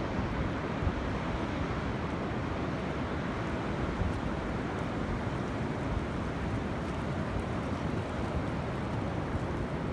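Wind buffeting the microphone with a low rumble over the steady wash of ocean surf.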